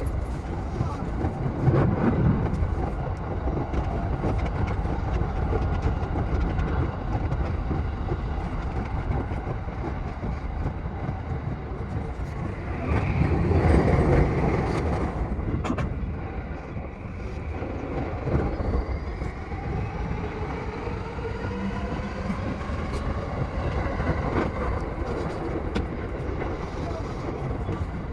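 E233-7000 series electric train running, with a steady rumble of wheels on rails that swells louder around 13–15 seconds in. A whine from the motors rises in pitch in the second half.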